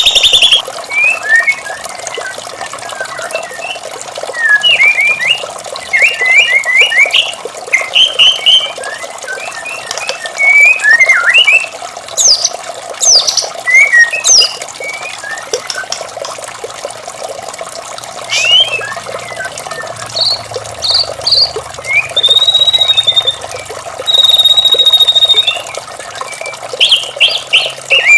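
White-rumped shama singing a varied song of quick chirps, slurred whistles and rapid chattering phrases, with a few longer held whistles past the middle, over a steady rush of running water.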